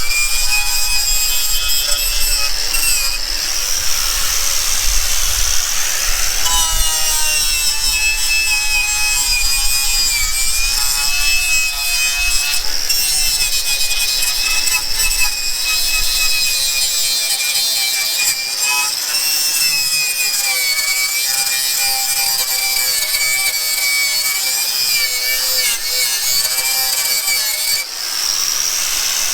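A handheld power tool running continuously, its high motor whine wavering as the load on it changes while it works against a surface.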